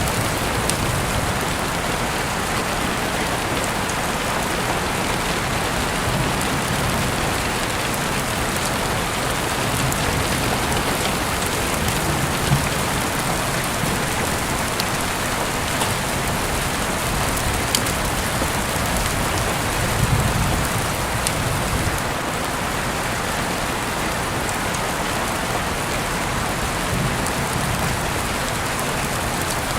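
Heavy rain falling steadily, with individual drops ticking now and then. A few brief low swells come through, the clearest about 12 and 20 seconds in.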